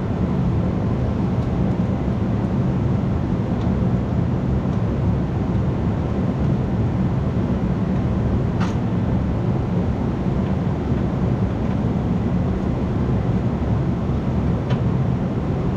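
Diesel engine of a 1974 Mack R-model truck running steadily, a low continuous rumble, after a bent pushrod has been replaced.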